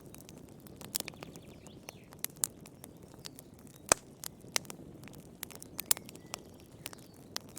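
Wood fire burning in a fireplace: irregular sharp crackles and pops over a soft low rush of flame, with a loud pop just before the middle and another about three-quarters through.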